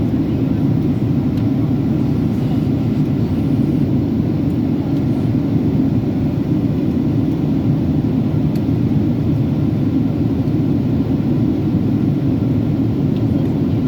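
Steady cabin noise of a Boeing 757-300 airliner in flight during the descent toward landing: an even, unbroken rush of airflow and engine noise, heaviest in the low range.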